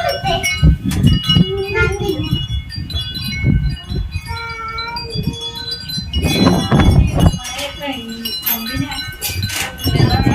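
Chime-like ringing tones sounding over and over, with voices of people talking in the background.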